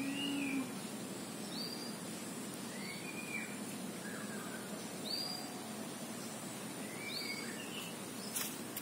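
Birds calling over steady rural background noise: short whistled chirps, each rising then falling, repeat every second or two, with a faint steady high tone underneath.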